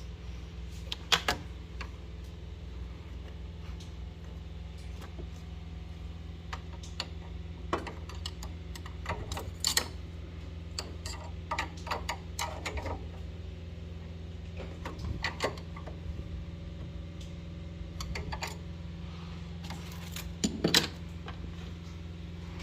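Scattered clicks and light metallic clatter of tools and small parts being handled while a broken hot-water flow turbine is replaced in a Biasi combi boiler, over a steady low hum.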